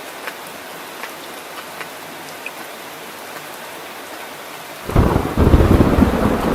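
Steady rain with scattered drips, then about five seconds in a loud, deep thunder rumble breaks in suddenly and keeps rolling.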